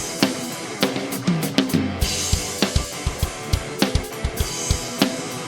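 Drum kit playing a steady rock beat, with bass drum and snare hits, over the song's instrumental backing between vocal lines.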